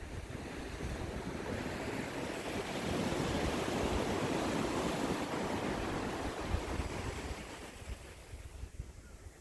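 Ocean waves: one wave builds and washes in, loudest about three seconds in, then draws back and fades near the end.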